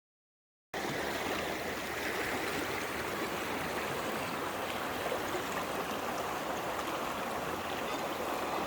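Mountain valley stream running over rocks, a steady rush of water that cuts in abruptly about a second in.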